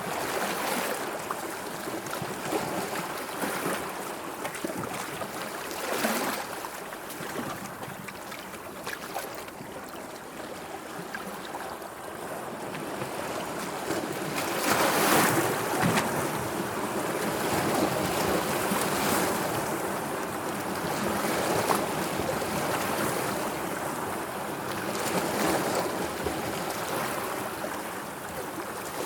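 Sea waves washing and lapping with a steady rush, swelling and ebbing, loudest about halfway through, with short splashes.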